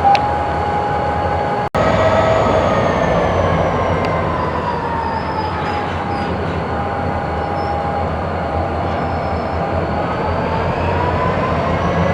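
Rail cars and a switching locomotive moving through a freight yard: a low steady rumble under a whine that slowly falls in pitch, then rises again near the end. The sound cuts out for an instant near two seconds in.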